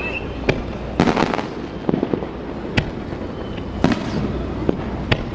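Fireworks bursting overhead: a run of sharp bangs at irregular intervals, with a quick cluster of them about a second in.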